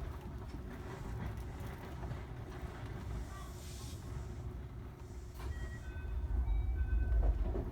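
Electric train running, a low rumble that grows louder about five and a half seconds in, with short high-pitched tones at several different pitches sounding over it near the end.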